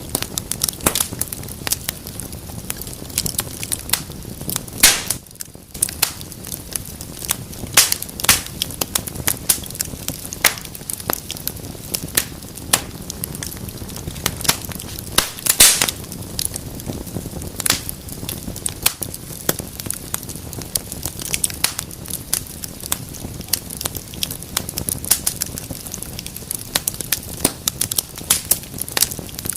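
Wood fire burning in a fireplace: frequent sharp, irregular crackles and pops over a steady low rumble of the flames, with a brief lull about five seconds in and a burst of louder pops about halfway through.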